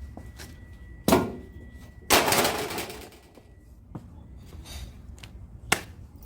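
Metal knocks and clattering from dismantling a scrapped air-conditioner outdoor unit: a sharp knock, then a louder clattering crash that dies away over about a second, and another sharp knock near the end.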